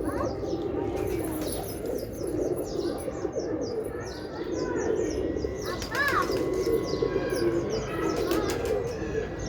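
Many pigeons cooing together in a continuous low chorus, with short high chirps of other birds over it.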